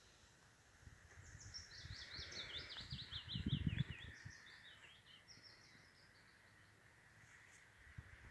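A songbird singing outdoors: a run of quick, high notes falling in pitch, starting about a second in and lasting about three seconds, then a shorter run about five seconds in. A brief low rumble on the microphone comes midway.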